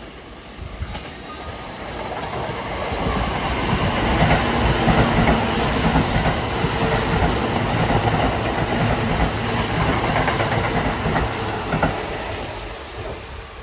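Kintetsu limited-express electric train passing by with wheels clacking over rail joints. It builds over the first few seconds, runs loud through the middle and fades near the end.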